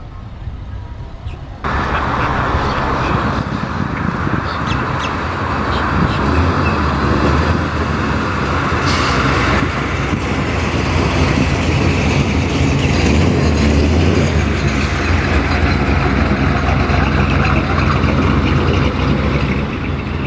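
A car engine running steadily with a deep, even hum. The sound starts abruptly about two seconds in.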